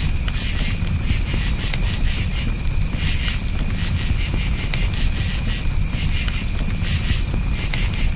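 Crickets chirping steadily in quick repeated pulses over a campfire, whose flames give a low rumble with scattered small crackles and pops.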